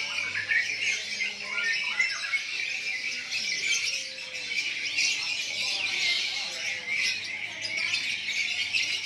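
Many caged birds chirping and squawking at once, a dense, unbroken chorus of short high calls.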